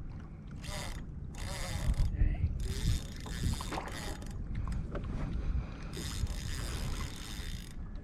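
Kayak on the water: irregular washes of water noise, with small mechanical clicks and knocks from the boat's gear.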